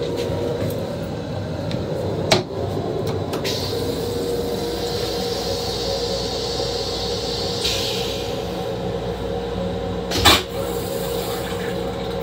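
Steady rumble and hum of an M7 electric railcar, heard inside its small restroom. There is a sharp plastic knock about two seconds in as the toilet seat is lifted, a hiss for a few seconds after it, and a second, louder knock near ten seconds.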